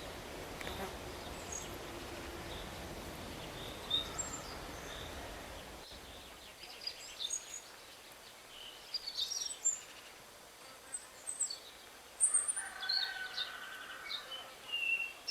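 Several wild birds chirping and calling in short high notes and trills, growing busier in the second half. Over the first six seconds or so a low, steady background rumble runs under a few faint chirps, then cuts off abruptly.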